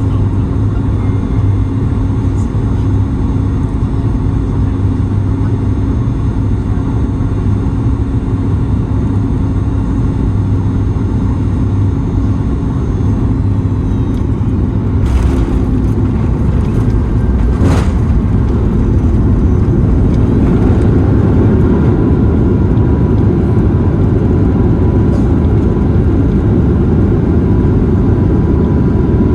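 Cabin noise aboard a Boeing 737-9 MAX airliner: a steady hum of engines and airflow that swells into a louder rushing about halfway through, with a couple of short knocks around the change.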